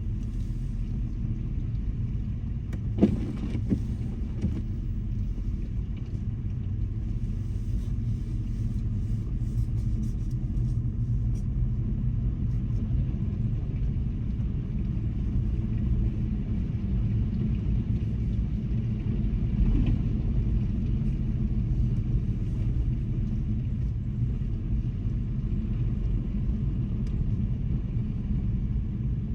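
Car driving on snow-covered roads: a steady low rumble of engine and tyres, with a single sharp knock about three seconds in.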